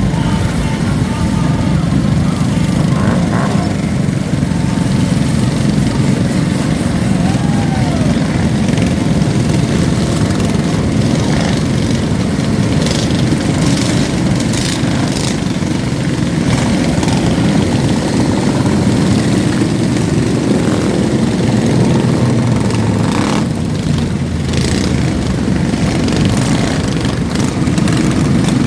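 Several small mini bike engines running together in a steady, continuous drone as the bikes ride by at low speed.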